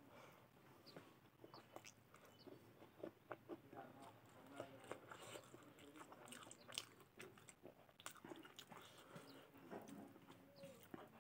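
Quiet close-up eating sounds of a person chewing rice and mutton curry eaten by hand: irregular small clicks, crunches and wet mouth sounds.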